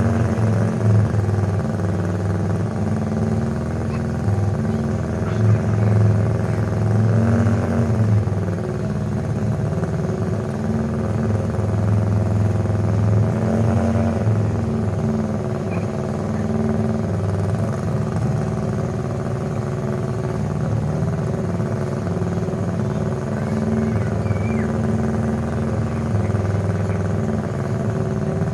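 Honda RC143 125cc four-valve racing engine, with bevel-gear-driven camshafts, running at a fast idle. It is revved up a little several times, and the note rises with each blip.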